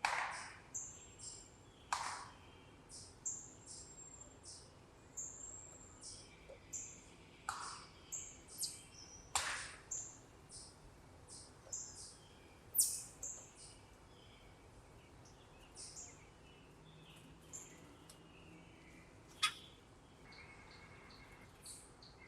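Backyard wild birds calling: a long series of short, high chirps, about two a second, with several louder, sharper calls among them. The calls thin out in the last third, with one last sharp call near the end.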